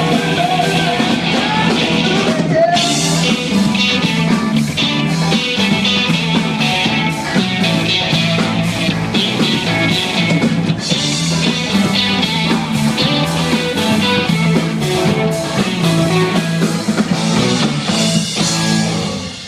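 Live rock band playing loudly, with guitar, bass notes and frequent cymbal hits. The music stops suddenly just before the end.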